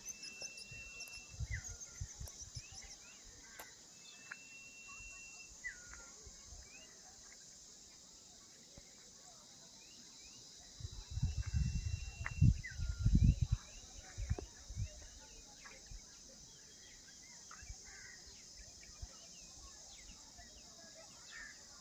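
Forest ambience: a steady high-pitched insect chorus, with a bird repeating a short held whistle that drops at the end. A burst of low rumbling thumps comes about halfway through.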